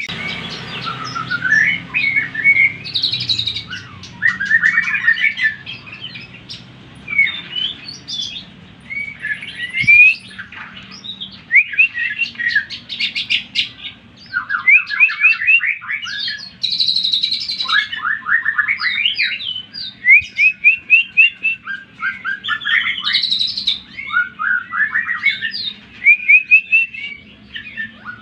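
Greater green leafbird (cucak ijo) singing a continuous, fast, varied song of whistled glides, chatters and rapid runs of falling notes. It is a bait song of the kind played to provoke a rival cucak ijo into singing. A faint low hum lies under the first several seconds.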